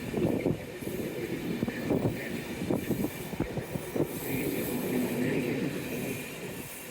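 Passenger train rolling slowly past, its wheels running over the track with a low rumble and irregular short knocks.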